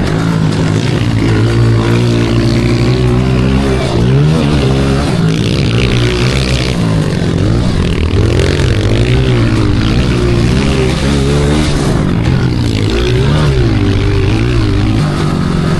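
Small pit bike engine being ridden hard, revving up and down again and again as the throttle opens and closes.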